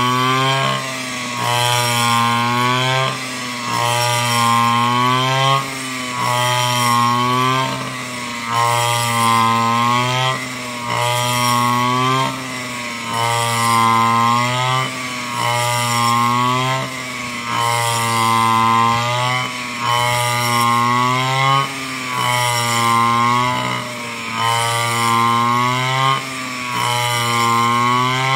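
Backpack brush cutter fitted with a rice-cutting cage and blade, its small engine running at high speed. The engine note and loudness sag and recover about every two seconds as the blade takes each sweep through the rice stalks.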